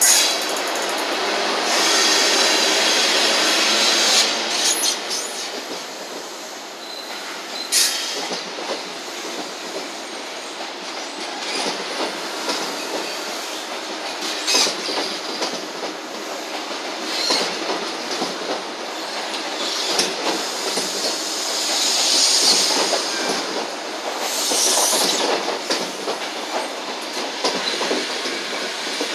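Train running on rails, with wheels clicking over rail joints and high-pitched squealing from the wheels.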